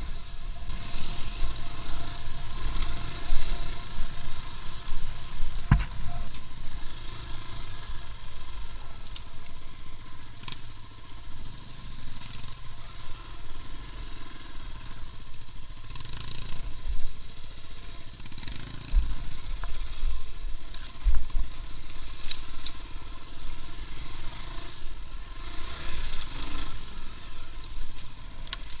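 A vehicle on the move: a steady low rumble with a swelling and fading hiss, and occasional knocks and jolts.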